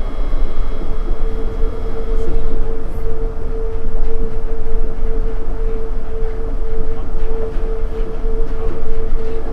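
Interior running noise of a Nippori-Toneri Liner 330 series rubber-tyred automated guideway train travelling between stations. A heavy low rumble from the tyres on the guideway runs under one steady mid-pitched hum.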